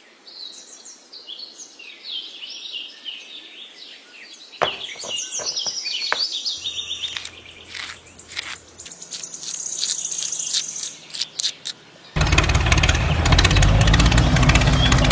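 Small birds chirping and tweeting in quick, repeated calls, with a few scattered clicks. About three-quarters of the way through, loud music cuts in.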